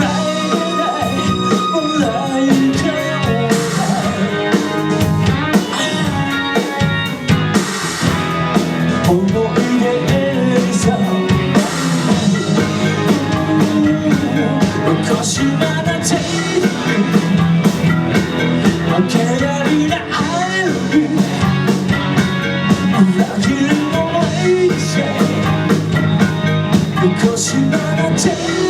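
A rock band playing live: drum kit and electric guitars with a sung lead vocal.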